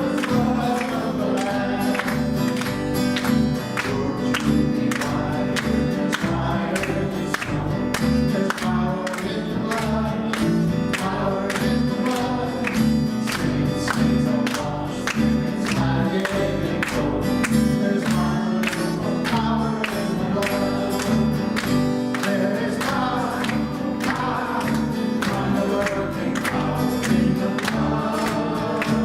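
Congregational worship music: a band with voices singing a gospel worship song, with a steady beat.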